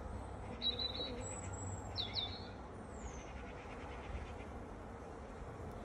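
Songbird chirps and short whistles: a handful of high notes in the first three seconds, the last a falling whistle, over a steady low rumble.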